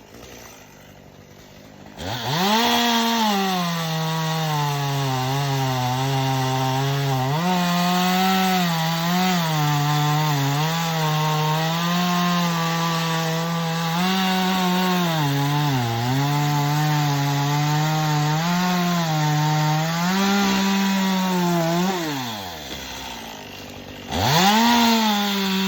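Chainsaw running at high revs, cutting wood. Its pitch dips and recovers again and again as the chain bites. It winds up about two seconds in, falls away after about twenty seconds, then revs up again near the end.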